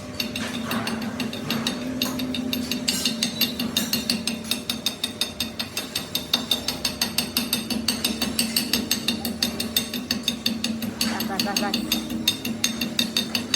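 A motor-driven workshop machine running with a steady hum, overlaid by a rapid, regular clicking of several clicks a second.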